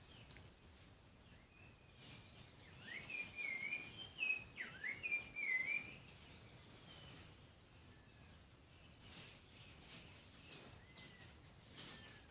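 A songbird singing one phrase of quick warbling whistled notes that swoop up and down, lasting about four seconds, followed by a few faint short chirps over a quiet background hiss.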